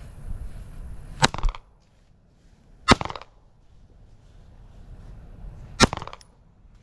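Three loud shots from a 9mm gun, the G-Force Rapture. The second comes about a second and a half after the first and the third about three seconds later, each followed by a short echo.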